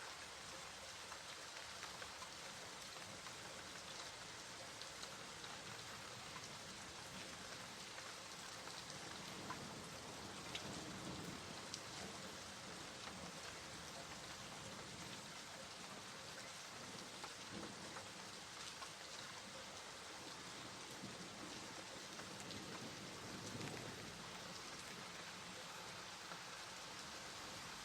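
Steady rain falling, an even hiss with scattered drops pattering on a surface and a couple of brief low swells.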